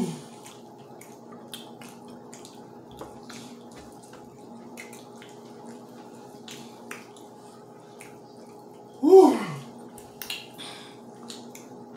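Close-up eating sounds of crispy fried chicken: wet lip smacks and chewing clicks, irregular and scattered, over a faint steady hum. About nine seconds in, a loud vocal exclamation falls in pitch.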